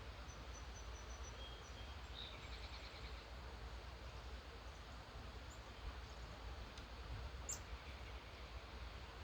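Faint birdsong over a steady hiss and low rumble. It starts with a run of short high notes and a brief trill in the first three seconds, and a single sharp chirp comes about seven and a half seconds in.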